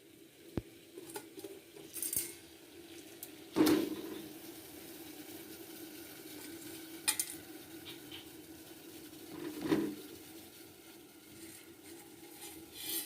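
Pots, bowls and utensils clinking and knocking while instant noodles are prepared: scattered short clinks, the loudest about three and a half seconds in and another near the ten-second mark, over a faint steady hum.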